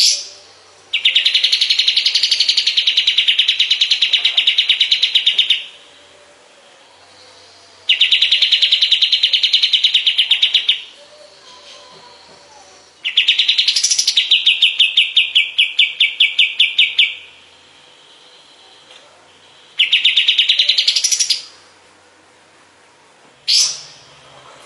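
Kapas tembak (pied triller) singing: four long, very rapid trills separated by pauses of two or three seconds, with a short sharp call note at the start and another near the end.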